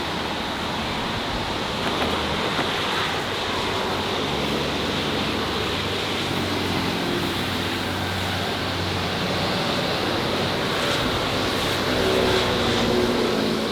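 Steady city street traffic noise with engines passing, a little louder near the end as a vehicle goes by.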